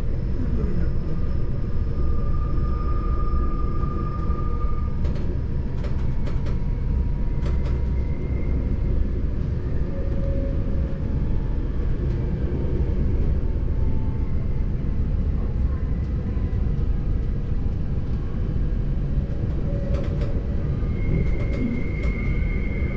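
Train from Zermatt on the Matterhorn Gotthard Bahn running along the track: a steady low rumble with a few brief high-pitched squeals and some sharp clicks.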